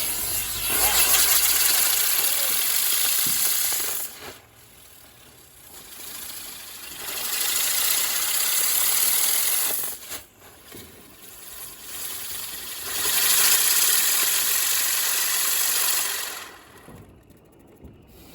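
Ground firework, such as a fountain, hissing as it sprays sparks, in three long bursts of about three to four seconds each with short quieter gaps between them.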